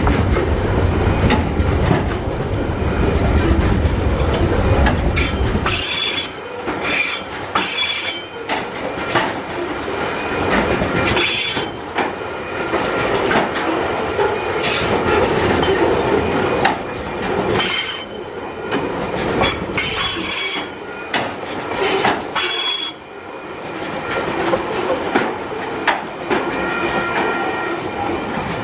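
TasRail freight train rolling past with a heavy low rumble for the first few seconds that then thins out. The wheels squeal again and again in short high-pitched bursts over the clatter of the rails, with a steady high squeal near the end.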